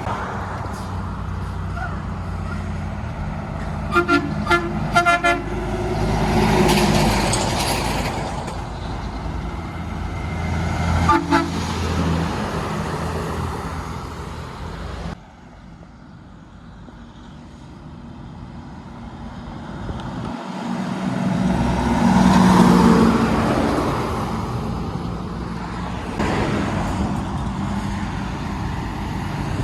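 Trucks passing on a road with engine and tyre rumble swelling as each goes by. A horn sounds several short toots about four seconds in and once more briefly around eleven seconds.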